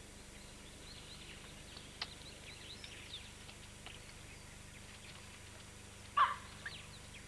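Faint wild birdsong: scattered short chirps, then one louder call sweeping up and down about six seconds in.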